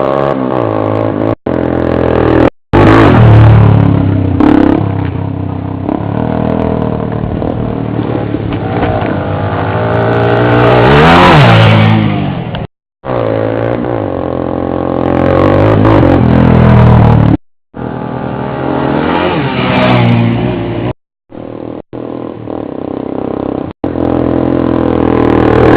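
Motorcycle engines running and revving, the pitch climbing to a peak about eleven seconds in and then falling away, as a bike accelerates and passes. The sound breaks off abruptly several times in short edited cuts.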